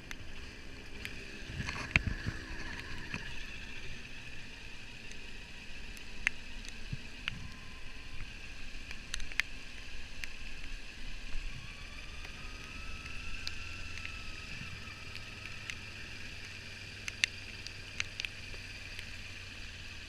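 Kawasaki Ninja 400 parallel-twin engine running at low speed, heard through a helmet mic with wind noise over it and occasional small clicks.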